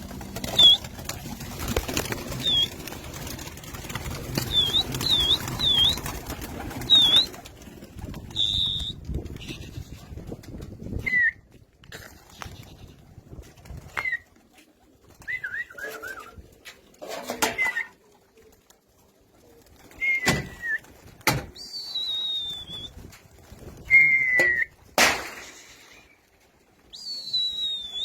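Domestic pigeons in a loft: wing flapping and rustling, sharp clicks, and short high bird chirps scattered through, several falling in pitch.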